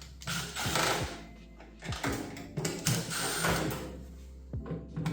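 Screws being driven out of a microwave oven's sheet-metal casing, in several short bursts of about a second each, with faint background music underneath.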